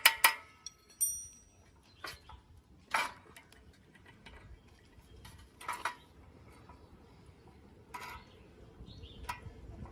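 Metal clinks and knocks of tools and bicycle parts being handled: a quick run of strikes at the very start, a short ringing clink about a second in, then single knocks every second or two.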